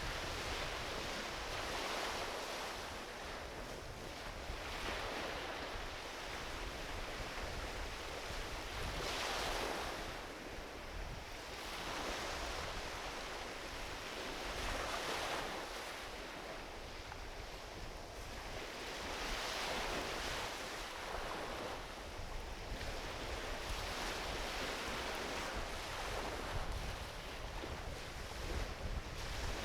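Small ocean waves washing onto a beach, a fresh swell of surf every few seconds, with a low rumble of wind on the microphone.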